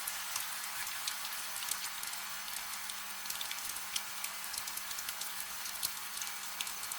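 Steady gentle rain: an even hiss with many small, sharp drop ticks scattered through it, with no thunder.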